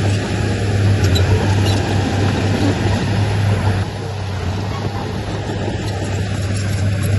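Diesel engine of a dump truck or bulldozer running steadily with a deep drone, easing off a little about four seconds in and then building back up.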